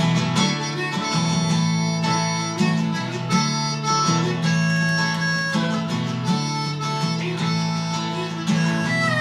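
Harmonica solo of held notes over a strummed acoustic guitar.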